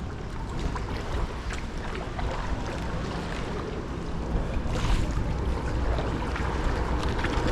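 Wind buffeting the microphone over water lapping and splashing around a kayak, with scattered small splashes.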